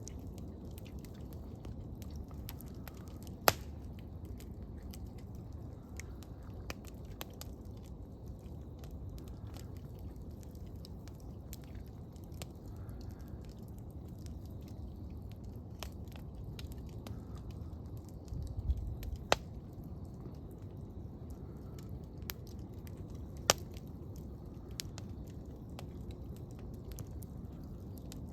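Wood campfire burning with a steady low rustle, and a few sharp crackling pops from the wood now and then.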